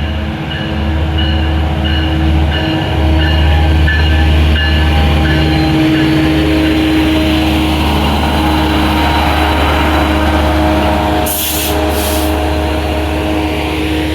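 Metrolink diesel commuter train pulling into the station, its engine a loud, steady, deep drone, with a bell dinging about twice a second through the first half. Late on, tones slide down in pitch as it slows, and two short hisses of air are heard.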